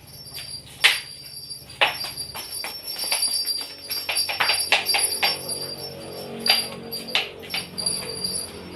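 A string of irregular sharp clicks and taps, with a faint steady high-pitched tone underneath.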